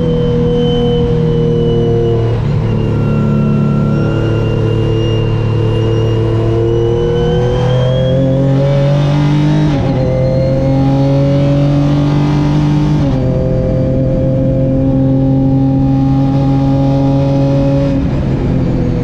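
Renault Mégane V6 Trophy race car's 3.5-litre V6 engine pulling hard, heard from inside the cabin. Its note climbs slowly and jumps in pitch at gear changes, most clearly about ten and thirteen seconds in.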